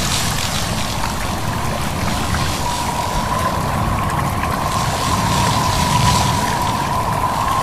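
Wind and a babbling stream rushing steadily, with a thin wind whistle coming in about three seconds in and holding on one slightly wavering pitch.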